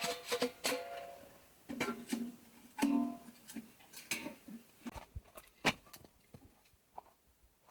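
Irregular knocks and clinks of hard objects being handled, a dozen or so over several seconds, several of them ringing briefly with a short pitched tone.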